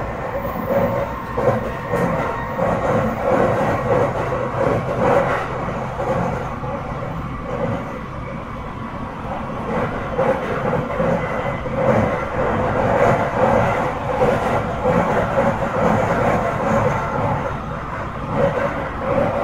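Running noise inside a Tsukuba Express TX-1000 series electric train car under way: a steady rumble of wheels on rail, with faint steady tones over it, swelling and easing a little in loudness.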